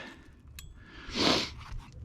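A single short, rasping scrape about a second in, against low background noise.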